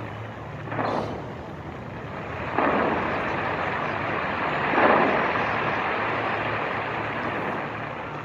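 Aerial fireworks exploding: three loud booms about a second, two and a half and five seconds in, each trailing off in a rumbling echo, over a continuous din of the display.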